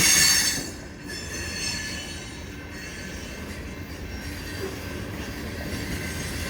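Freight cars rolling past on the rails. A high wheel squeal dies away about half a second in, leaving a steady rumble of wheels on track.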